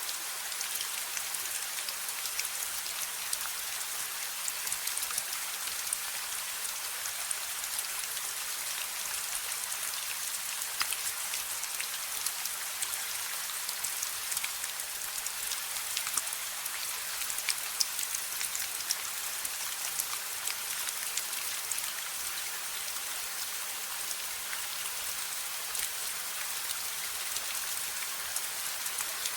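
Steady rain falling on a hard surface: an even hiss full of small, close drop ticks, with a faint low hum underneath.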